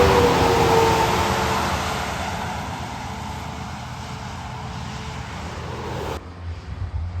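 Heavy truck passing on a wet highway: tyre hiss and an engine note that falls in pitch as it moves away, fading steadily. About six seconds in, the sound cuts off abruptly and a low, uneven rumble is left.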